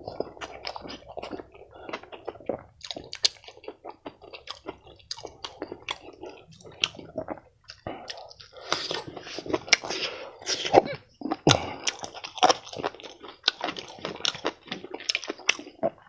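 A person chewing food close to the microphone, with many irregular sharp mouth clicks.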